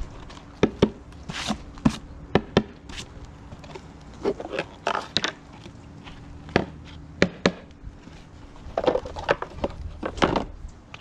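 Irregular knocks, clicks and short scrapes of beehive parts being handled and set down during a hive inspection.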